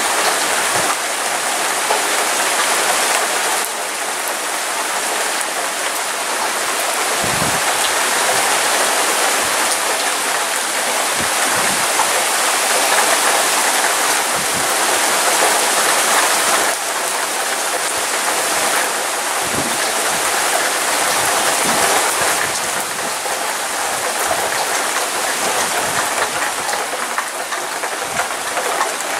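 Heavy rain pouring steadily onto wet pavement and puddles in a thunderstorm downpour: a dense, even hiss with a few faint low knocks.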